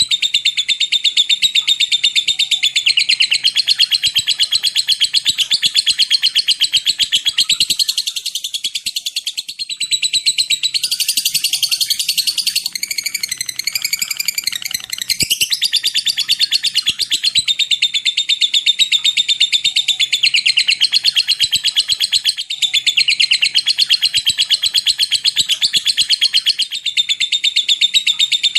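Lovebird giving long 'ngekek' chattering trills: rapid, high-pitched notes run together in nearly unbroken strings, changing to a more varied chirping near the middle.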